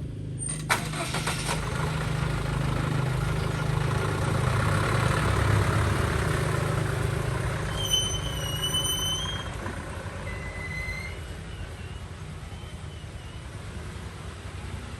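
Truck engine running steadily, growing louder toward the middle and easing off after about ten seconds. There is a sharp click about a second in and a brief high squeal about eight seconds in.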